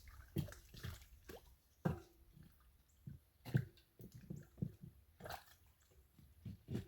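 Irregular wet squelches and dull knocks as bricks are pressed and set into wet, washed-out soil.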